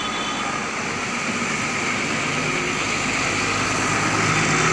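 Diesel engine of a hydra pick-and-carry crane running steadily, growing a little louder towards the end.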